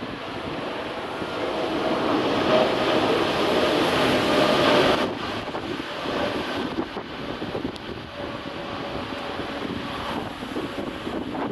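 Jet engines of a Boeing 787-9 Dreamliner, a broad rushing roar with faint steady whining tones. It swells to its loudest about five seconds in, then drops off abruptly and carries on lower.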